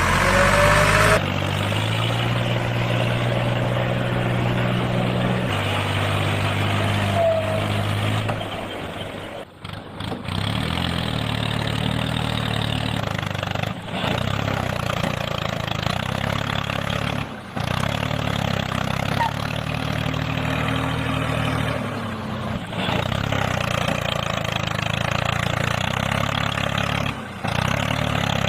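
Small electric motor of a homemade model tractor and chaff cutter running steadily, its pitch shifting a few times, with brief dropouts several times.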